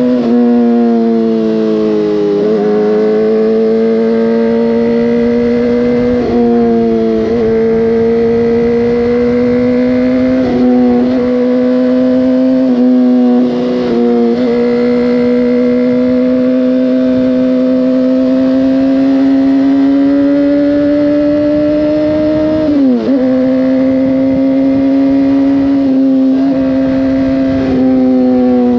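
Motorcycle engine running under way, heard from on the bike. Its note mostly holds steady, with several brief sudden dips and jumps in pitch, and climbs slowly for a few seconds before a sharp drop near the end.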